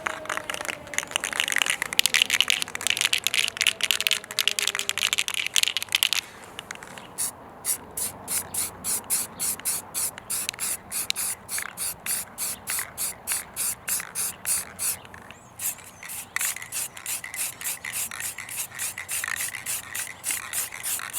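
Sandpaper rubbed by hand over freshly spray-painted parts, scuffing down rough spots. Fast, continuous rubbing for the first few seconds, then steady back-and-forth strokes, about two or three a second, with a brief pause about two thirds of the way in.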